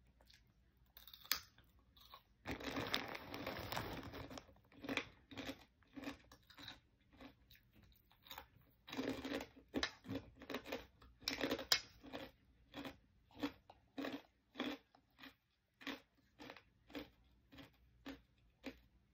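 Close-up crunching of chicharon (fried pork rinds) being bitten and chewed: two long stretches of dense crunching, then steady chewing at a little under two chews a second.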